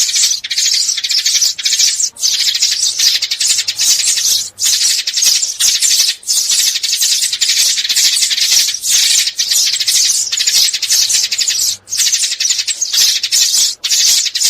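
Sparrows chattering: a dense, continuous mass of rapid high chirps with only brief breaks, the kind of sparrow chatter played as a lure for trapping.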